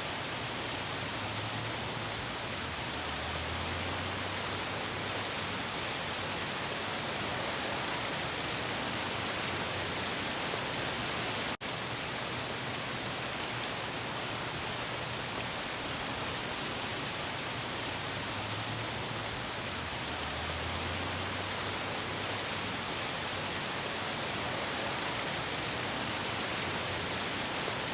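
Steady, even rush of harbour waves, with no distinct surges, and a momentary dropout about a third of the way through.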